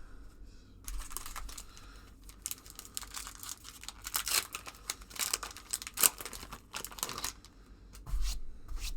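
A basketball card pack wrapper being torn open and crinkled by hand, an irregular crackling run that peaks around the middle.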